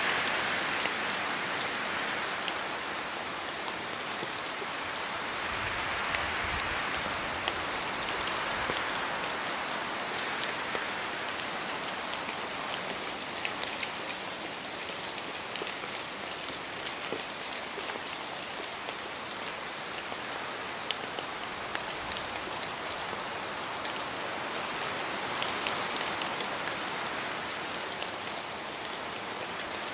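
Steady rain falling, with many sharp individual drops striking close by. A rushing of wind in the trees swells and eases every few seconds.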